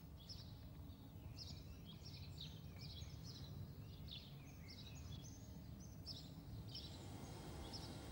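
Small birds chirping, faint: a quick run of short, high notes, several a second, over a steady low rumble.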